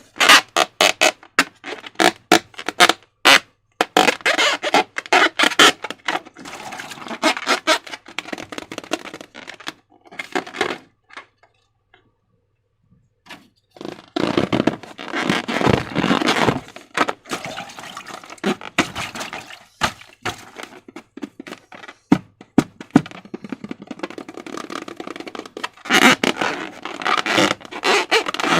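Slime being worked by hand: a fast run of sticky clicks and cracks at first, then wet squelching and crackling, with a short silent pause about twelve seconds in.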